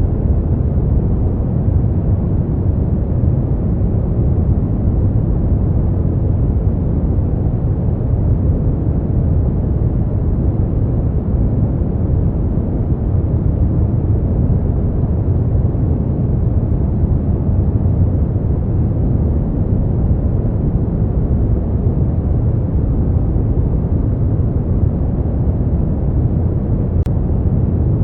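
Brown noise: a steady, even deep hiss, strongest in the low end and fading away in the highs, with no change over time.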